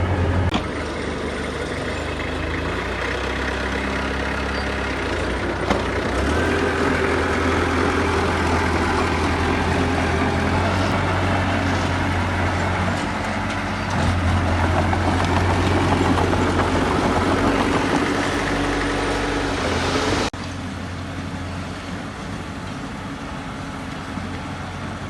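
Heavy diesel engine of earthmoving machinery running, its load rising and falling. It drops suddenly to a quieter running sound about 20 seconds in.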